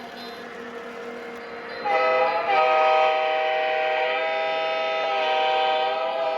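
Lionel Legacy model locomotive's sound system sounding a multi-chime train horn. One long blast of several notes at once starts about two seconds in, with a brief stutter just after it begins, over a low steady engine hum.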